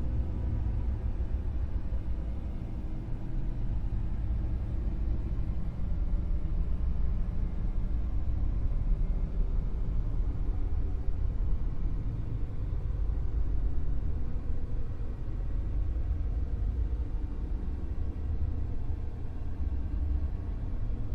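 Dark (brown) noise: a steady, even rumbling hiss heavy in the bass and dull in the treble, with slow gentle swells in loudness.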